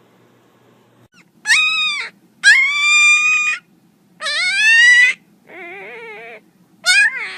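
A young puppy whining in five high-pitched cries, each rising in pitch and lasting about a second; the fourth is softer than the others.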